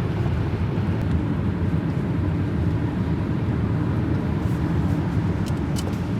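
Steady rumble and hiss of a car driving on the road, with a few faint clicks near the end.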